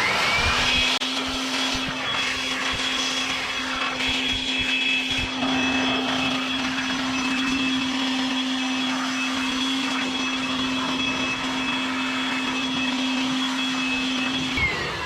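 Handheld electric blower switched on, whining up to speed, running steadily, then switched off and winding down near the end. It is blowing the freshly washed air-conditioning unit dry so it won't short.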